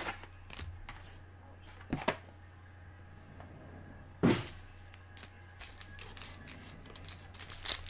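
A trading-card box being handled and opened by hand: scattered clicks and taps of cardboard and packaging, with one louder knock about four seconds in.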